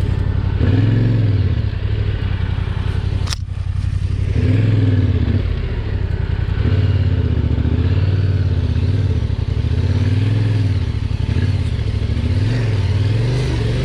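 Yamaha Ténéré 700's parallel-twin engine under way, the throttle opened and eased off again and again so the pitch rises and falls. A single sharp knock about three and a half seconds in.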